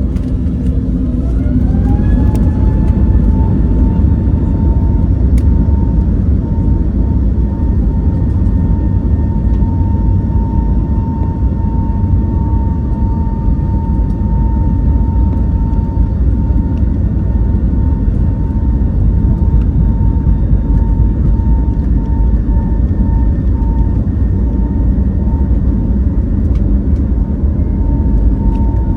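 Airbus A321neo jet engines heard from inside the cabin: an engine whine rises over the first two seconds and then holds steady over a heavy, continuous rumble, typical of the engines spooling up to take-off thrust and the aircraft accelerating.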